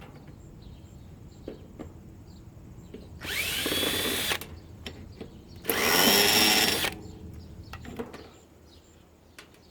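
Cordless drill running twice, about a second each time, its pitch rising as the motor spins up, as it works screws out of the air purifier's housing. Light clicks and taps come between the two runs.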